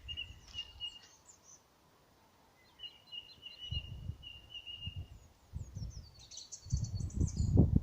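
Birds singing: one bird repeats trilling phrases on a steady high pitch, then a burst of higher, quicker chirps comes near the end. Low thumps run underneath and grow louder near the end.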